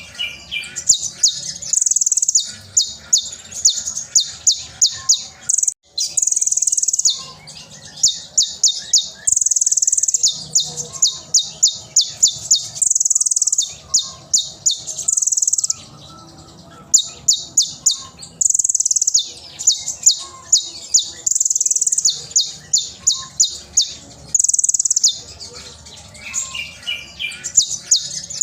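Konin (kolibri ninja, plain-throated sunbird) singing loudly and continuously: high-pitched, rapid runs of sharp repeated notes broken by short held, strident notes, phrase after phrase.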